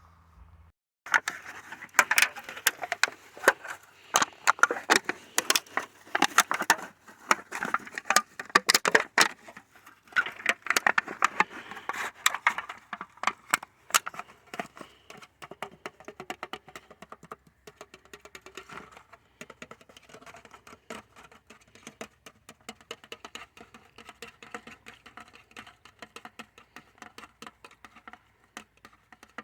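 Close-up crackling and tapping: a dense, fast run of small sharp clicks, loud for the first dozen seconds or so, then lighter and quieter.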